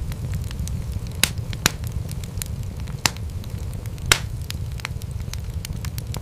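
Wood fire crackling, with a steady low rumble of flames and frequent sharp pops, four of them louder than the rest.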